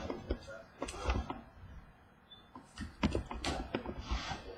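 Trading cards being handled: scattered light taps and clicks, with a couple of short rustling slides near the end.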